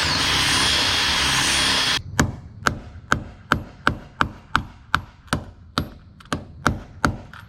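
Power drill running steadily, cutting off about two seconds in. A run of about a dozen evenly spaced sharp metallic clicks follows, roughly two a second.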